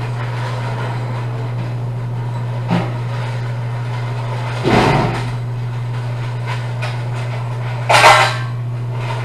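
A steady low hum with three short clanks over it; the loudest comes about eight seconds in.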